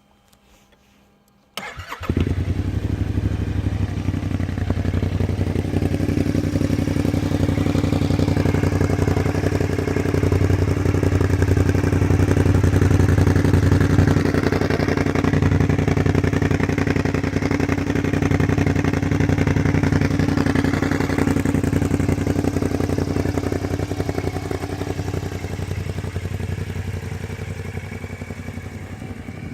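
Kymco AK 550 maxi-scooter's parallel-twin engine starting about a second and a half in, then running steadily through an Akrapovic exhaust, a little quieter over the last few seconds.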